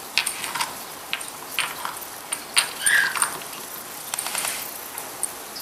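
A pet's short, high calls, one clearer about three seconds in, among scattered sharp clicks.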